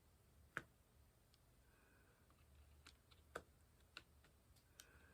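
Near silence broken by about five faint, sharp clicks at uneven intervals: a diamond-painting drill pen tapping resin drills onto the canvas.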